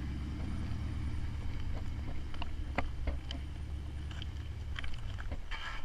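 LS V8 engine of a Jeep TJ rock crawler running at low, steady revs, with scattered light clicks and knocks over the rumble.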